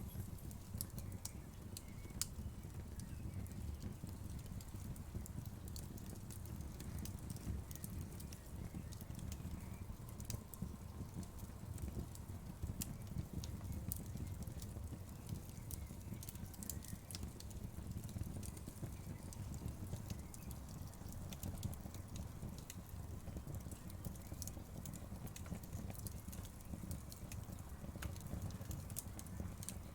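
Wood fire crackling and popping, with irregular sharp snaps over a low, steady rumble of the flames.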